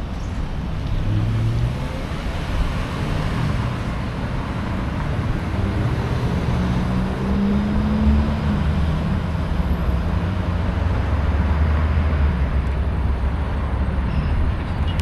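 Motor traffic with a vehicle engine running close by, its low note drifting up and down over a steady rush of road noise. It is loudest about two-thirds of the way through and cuts off abruptly at the end.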